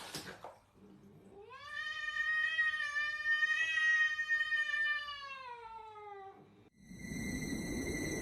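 A domestic cat giving one long, drawn-out yowl lasting about five seconds, its pitch sagging toward the end. About seven seconds in, a steady hiss with high, even tones takes over.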